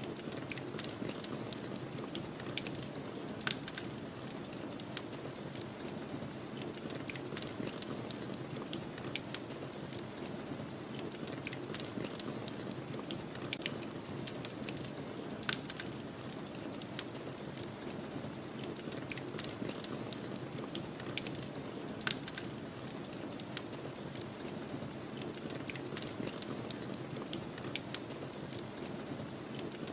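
Wood fire crackling with frequent irregular sharp pops, over a steady low rush of snowstorm wind.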